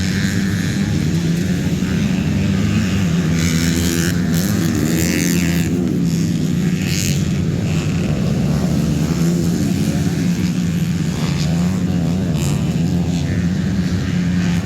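Motocross dirt bike engines revving, their pitch rising and falling as riders work the throttle, over a steady low engine drone.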